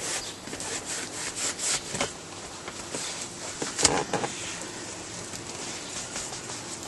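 Rubbing and scraping noises with scattered knocks, the sharpest knock about four seconds in.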